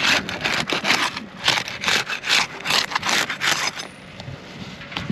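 A pry tool scraping under asphalt roof shingles in quick repeated strokes, about two a second, to break the shingles' sealant strips loose.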